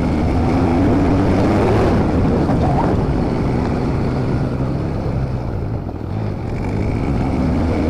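Motorcycle engine running during a ride: a steady low drone under rushing noise, dipping briefly about six seconds in.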